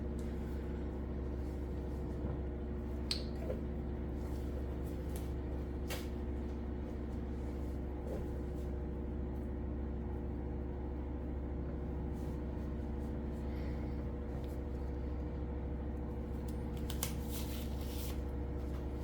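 Steady low hum in a small room, with a few faint clicks and light handling noises, about three seconds in, at six seconds and near the end.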